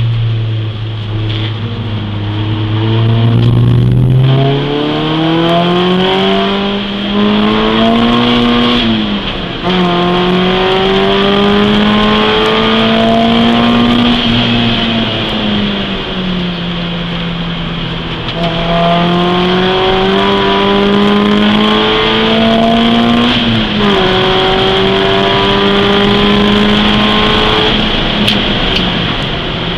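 Peugeot 206 S16's 2.0-litre 16-valve four-cylinder engine heard from inside the cabin while driven hard. The engine note climbs as the car accelerates, falls sharply at gear changes about ten seconds in and again near 24 seconds, and sags in between as the throttle eases before climbing again.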